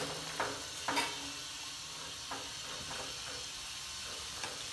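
Chopped tomatoes, onion and cashews sizzling steadily in oil and butter in a kadhai, stirred with a wooden spatula that scrapes against the pan in several short strokes, the strongest in the first second.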